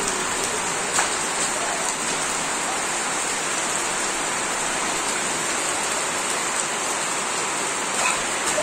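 Steady monsoon rain falling on leaves and a tiled courtyard, with a few sharper drip splashes about a second in and near the end.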